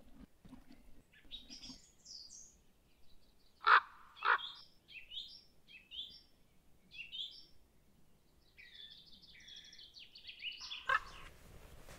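Wild birds calling: a run of high songbird chirps and short song phrases, broken about four seconds in by two loud, harsh calls. A brief rush of noise comes near the end.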